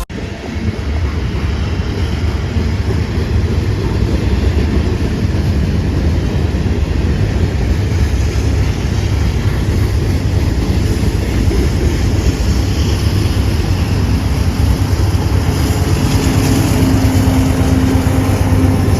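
Freight train with diesel locomotives running past, a loud steady low rumble of engines and rolling cars. A steady low hum comes in about three-quarters of the way through.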